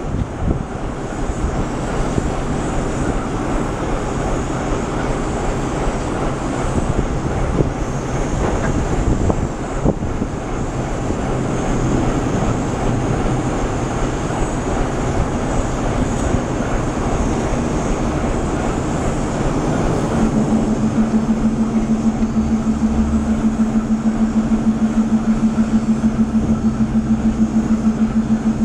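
Russian EP20 electric locomotive pulling a passenger train out, with a steady mechanical running noise. About two-thirds of the way in, a steady low hum joins as the coaches roll past, and the loudness pulses regularly.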